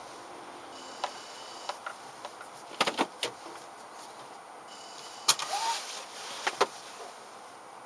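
Aftermarket 8-inch touchscreen head unit in a 2014 Toyota Corolla Altis making an abnormal noise: scattered sharp clicks and rattles, the loudest about five seconds in, over the car's steady cabin hiss.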